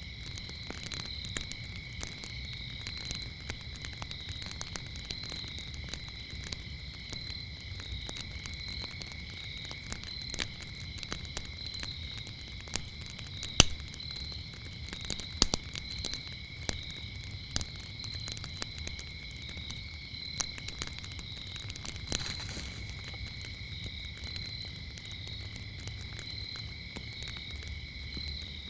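Wood fire crackling and popping in irregular sharp snaps over a low rumble of flames, with the loudest pops a little under halfway through. Behind it a chorus of crickets keeps up a steady high-pitched chirping with an even pulse.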